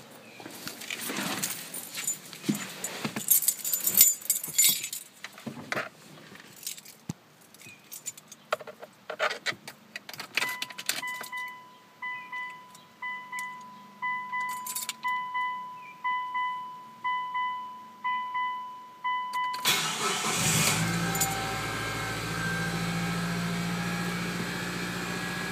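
Keys jangling and clicks as the car is entered and the key is handled, then the dashboard warning chime beeping steadily, about one and a half beeps a second. About twenty seconds in, the 2003 Mitsubishi Eclipse's 2.4-liter four-cylinder engine cranks briefly and catches at once, settling into a steady idle: a cold start after the car has sat for two weeks.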